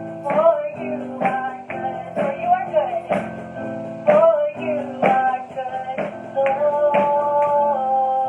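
Acoustic guitar strumming slow chords, about one strum a second, as worship-song accompaniment, with a soft wordless voice wavering over it at times.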